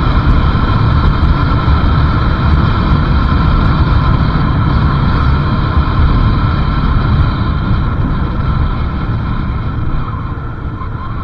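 Riding on a motorcycle: wind rumbling on the microphone over the steady running of the engine and tyre noise. It eases a little near the end.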